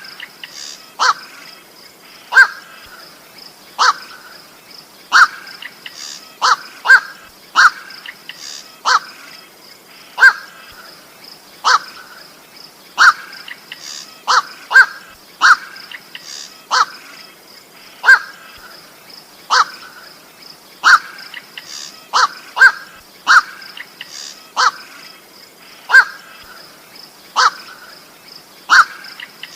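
Koak (goak) bird lure calls: short, harsh single or paired calls repeating about every second or so, over a faint steady high-pitched hum.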